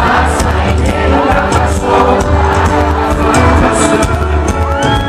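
Live sertanejo pop concert music over loud PA speakers, with a heavy pulsing bass beat, singing and a crowd cheering along.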